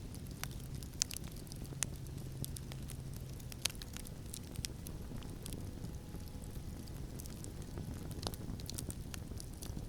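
Campfire crackling with scattered sharp pops, the loudest about a second in, near two seconds and near four seconds in, over a steady low rumble of wind.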